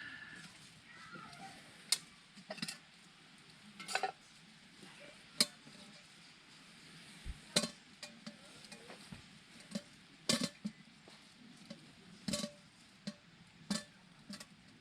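Scattered sharp clicks and light knocks, about a dozen at irregular intervals, as of hard objects being handled and set down.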